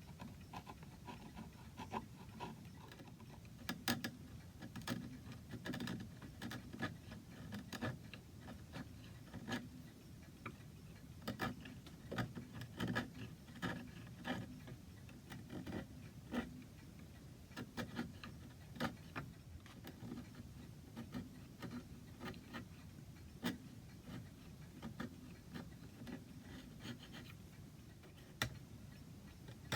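A steel blade scraping old PVA glue off a rosewood chair joint by hand, in short irregular strokes with light ticks and clicks.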